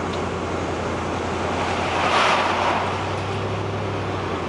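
Road noise inside a moving car: a steady low engine and tyre hum, with a broad rush of noise that swells and fades about two seconds in.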